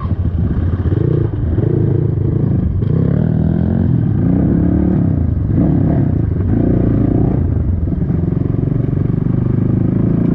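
Dirt bike engine running while riding, its pitch rising and falling several times as it revs up and eases off.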